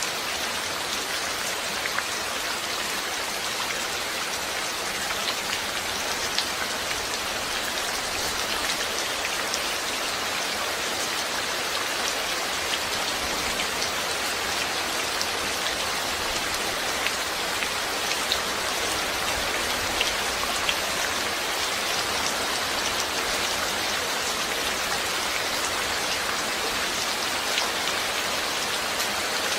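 Steady rain falling, with many individual drops ticking on a surface through an even hiss.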